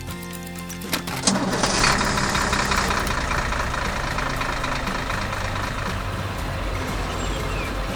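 A heavy machine's diesel engine running steadily. About a second in come two knocks, then a loud rushing, crashing noise that slowly dies away.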